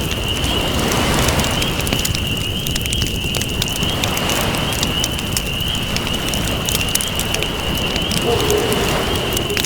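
Campfire crackling with sharp pops over a steady wash of ocean waves. A continuous high-pitched trill runs underneath.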